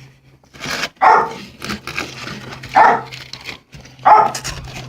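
Dog barking, about four loud barks roughly a second apart. The dog is blind, and the owner puts the barking down to its not knowing who is in the house.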